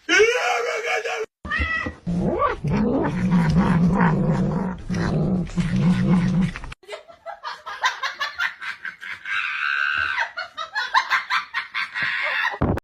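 Cat yowling and meowing: a rising-then-falling call at the start, a long, wavering low yowl from about two seconds in to about seven, then quicker, higher cries.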